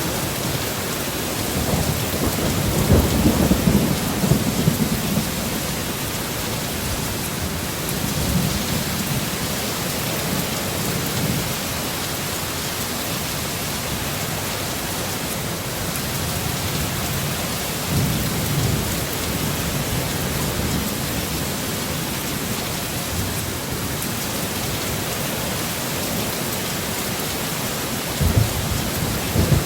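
Heavy, steady rain with low rolling thunder rumbles: the strongest about two to five seconds in, with weaker ones around eight seconds, around eighteen seconds and near the end.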